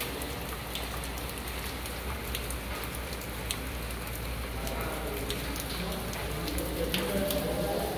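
Steady rain falling on stone paving and grass, with scattered sharp ticks of drops striking nearby.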